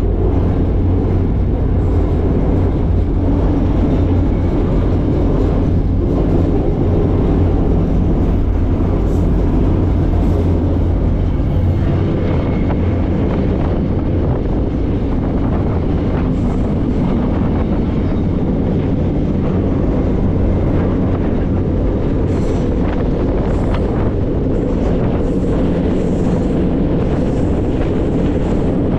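Steady low rumble and rattle of a freight train rolling along, heard from aboard one of its cars.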